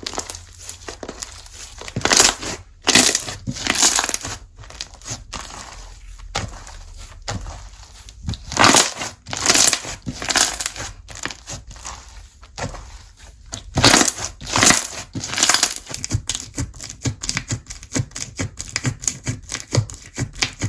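Slime being squeezed, stretched and pressed by hand, giving wet crackling and popping clicks in irregular bursts, with several louder presses and a quick run of small clicks near the end.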